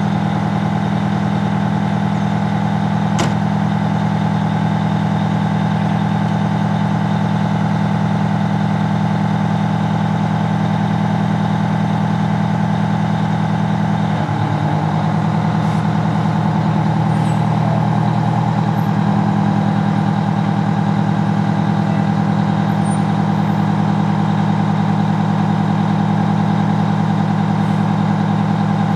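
Fire engine's diesel engine running at a steady pitch, a loud constant drone. There is one sharp click a few seconds in and a small change in the engine note about halfway through.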